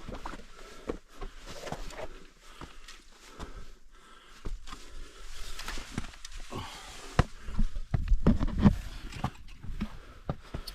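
A hiker's footsteps on a steep mountain path, irregular steps and scuffs as he climbs, with a louder patch of heavy thuds and low rumbling about eight seconds in.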